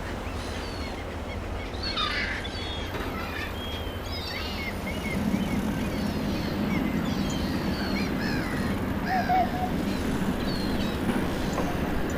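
Small birds chirping repeatedly in short, falling calls over a steady low rumble that swells about five seconds in.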